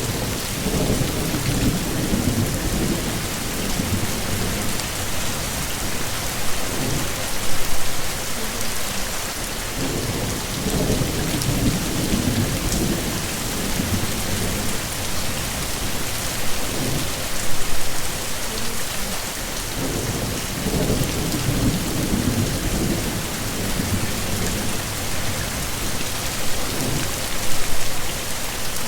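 Heavy steady rain hissing on surfaces, with low thunder swelling and fading several times.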